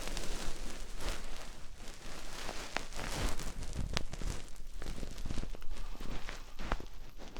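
Close-miked binaural ASMR sounds: a continuous rustling, scratching texture broken by many sharp irregular crackles and clicks.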